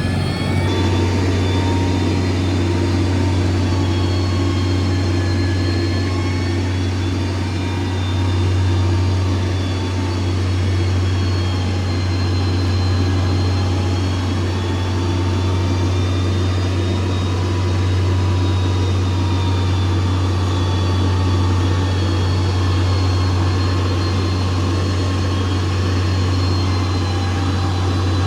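Heavy earth-moving machine's diesel engine running steadily under a low, even hum, with a thin whine above it that slowly rises and falls.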